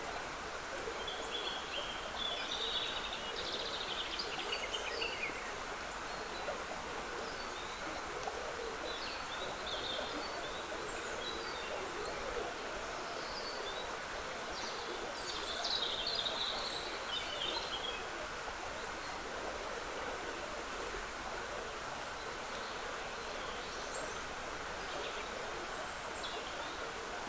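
Water trickling steadily in a small woodland stream, with songbirds singing short phrases over it every few seconds, the fullest bursts of song near the start and about two-thirds of the way through.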